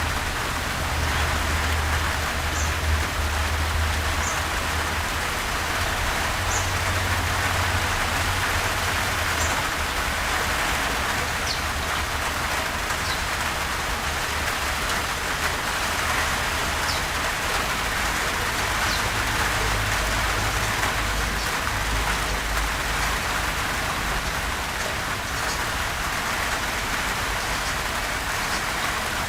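Steady gentle rain, an even hiss with occasional faint drop ticks, over a low rumble that swells and eases.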